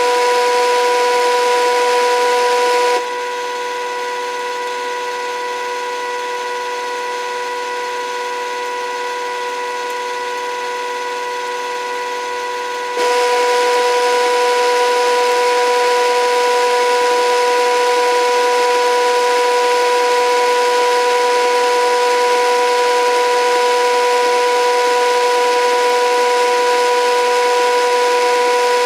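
HUSTOO 775 DC motor of a modified toy washing machine running under PWM speed control: a steady electrical whine with a hiss. About three seconds in, the whine changes to a quieter, lower set of tones for about ten seconds, as the drive setting changes, then returns to the full whine.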